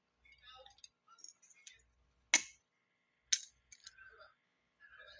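Plastic Lego pieces being handled: scattered light clicks and rattling, with two sharp clacks about two and three seconds in.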